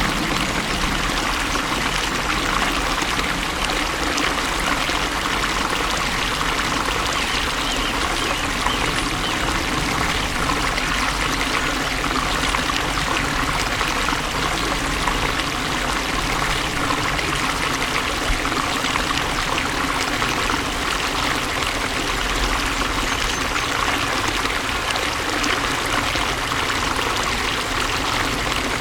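Water flowing steadily, a stream or small fall of water trickling and pouring without a break.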